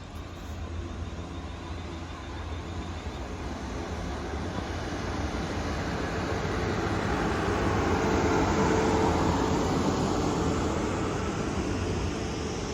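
Class 450 electric multiple unit pulling away from the platform. Its motors and wheels swell to a peak about eight seconds in, then ease off.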